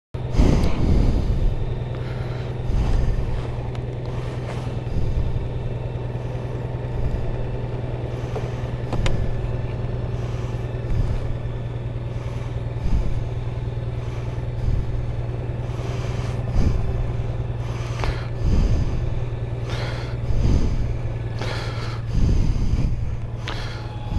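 Motorcycle engine running at steady revs, a constant low hum, with soft low thumps about every two seconds.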